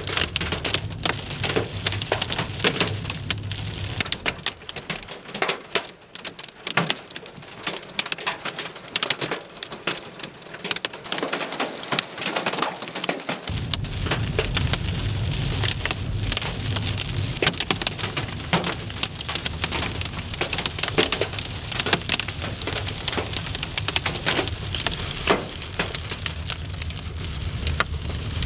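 Hail and heavy rain pelting down in a thunderstorm: a dense hiss studded with many sharp stone hits. A low steady rumble underneath stops a few seconds in and comes back about halfway through.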